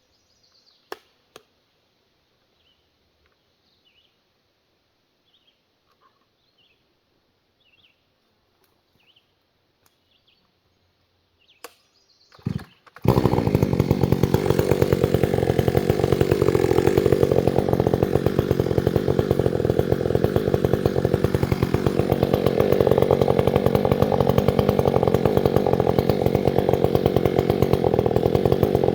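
Chainsaw starting up abruptly about halfway in, after a few sharp knocks, then running steadily and loudly. Before it there is near silence with faint, short high chirps.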